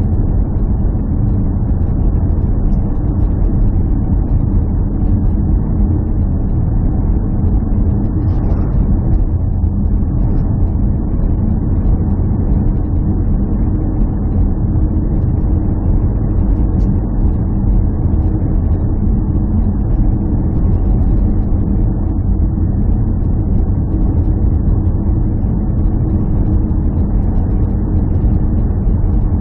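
A vehicle engine running steadily: a loud, even, low drone that holds its pitch throughout.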